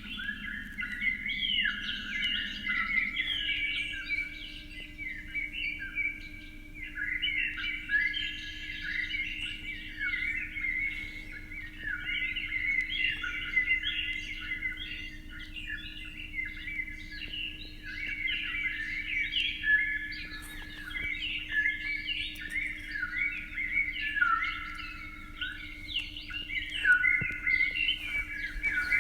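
Many small birds chirping and twittering at once, a dense run of overlapping short calls that goes on without a break, with a faint steady low hum underneath.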